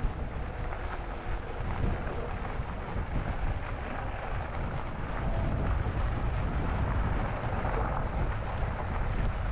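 Wind blowing across the microphone of a camera riding along on an e-bike, a steady low rumble with gusty rises and falls.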